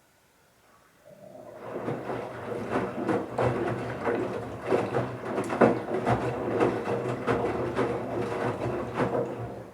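Bauknecht Super Eco 7615 washing machine's inverter motor turning the drum during the wash: towels tumbling with irregular knocks over a steady low hum. It starts about a second in, builds up, and stops near the end.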